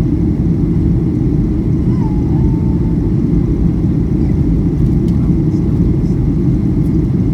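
Cabin noise aboard a Boeing 737-800: a steady, loud low rumble of its CFM56 engines and the airflow past the fuselage.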